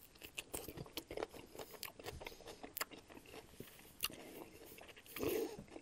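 Close-miked chewing of a sub sandwich with crunchy potato chips on it: a run of small crunches and wet mouth clicks. Near the end a paper napkin is wiped across the mouth.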